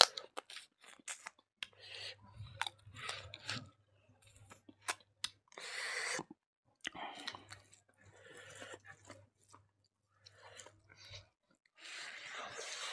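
Close-miked chewing of rice and chicken curry eaten by hand, with scattered clicks and occasional crunches and a couple of longer noisy patches. A faint low hum comes and goes.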